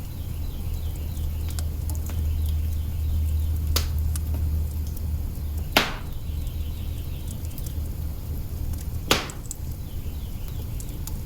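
Wood fire burning in an open hearth: a steady low rumble with scattered small crackles and a few sharp pops, the two loudest about six and nine seconds in.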